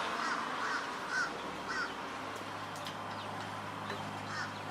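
A bird calling outdoors in short, repeated calls, about two a second at first and again near the end, over a steady low hum.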